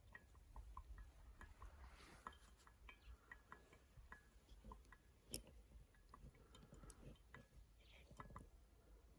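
Near silence with faint, scattered crackles and clicks, typical of a small wood fire burning in a Sierra camp stove; one sharper click about five seconds in.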